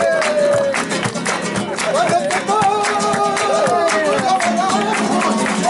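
Flamenco-style song: a voice holding long, wavering, falling notes over fast strummed acoustic guitar.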